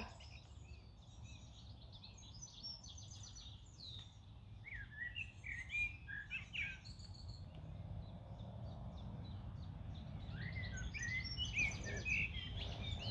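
Songbirds singing, short quick chirping phrases in three spells, over a low, steady background noise.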